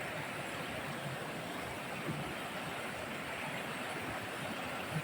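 Steady rush of a rocky mountain stream flowing over stones.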